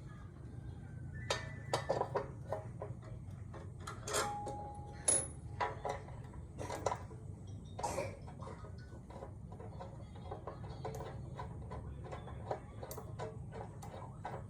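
Irregular metallic clinks and knocks of metal parts and tools being handled, some ringing briefly, over a steady low hum.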